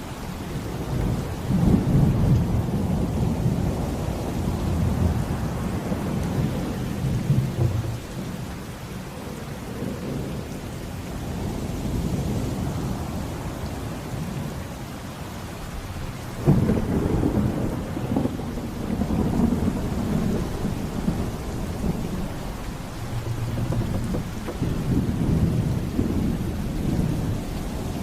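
Thunderstorm: repeated rolling thunder rumbles over steady heavy rain, with a sharp, loud thunderclap a little past halfway that rolls on for several seconds.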